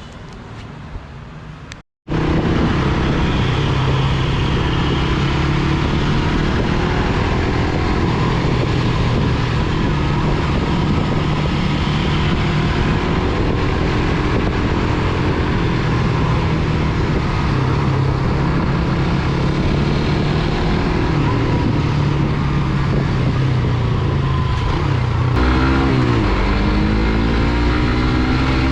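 Suzuki GSX-R150's single-cylinder engine running steadily under way, starting abruptly about two seconds in. Near the end its pitch drops and then climbs again.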